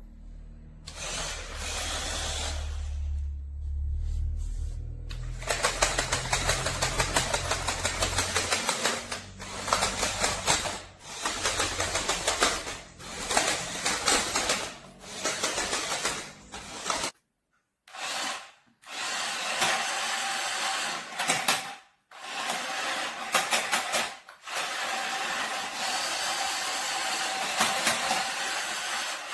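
Small electric motors and plastic gearing of a toy remote-control monster truck whirring, the sound surging and dropping repeatedly as it drives, with a few sudden breaks where the footage cuts.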